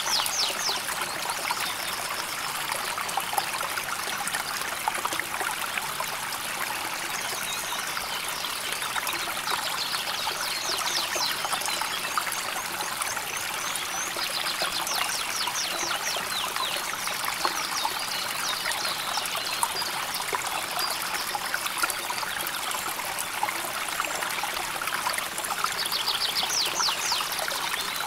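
River water flowing calmly, a steady trickling and babbling. A high, fast trill sounds several times over the flow.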